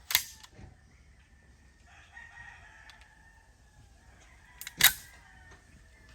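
Two gunshots from a Desert Eagle .50AE pistol, about four and a half seconds apart, the second the louder.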